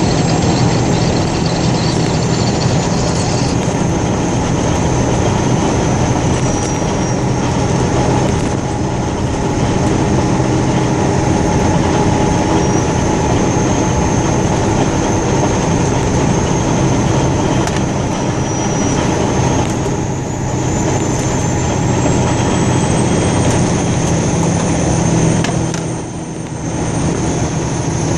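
Steady engine hum and road noise from inside a moving car, with a faint high whine that wavers in pitch.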